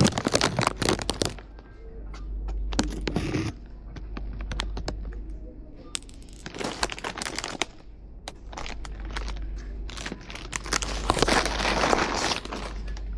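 Rustling and crinkling handling noise with scattered sharp clicks and scrapes, coming in several stretches, over a steady low hum.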